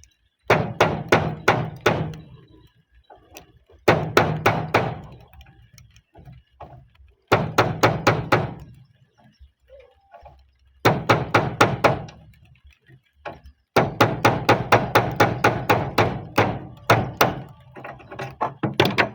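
Hammer blows in five quick bursts, about four to five strikes a second, the last burst the longest.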